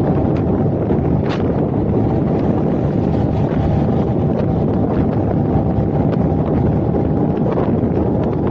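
Steady wind and road rumble of a car on the move, with wind buffeting the camera's microphone and a few faint ticks.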